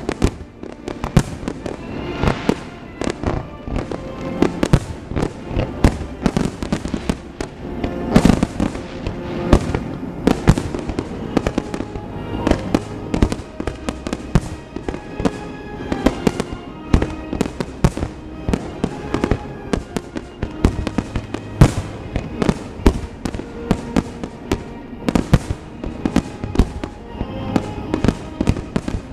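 A fireworks display with shells bursting in quick, dense succession, several loud bangs a second with crackling in between, over music with held notes.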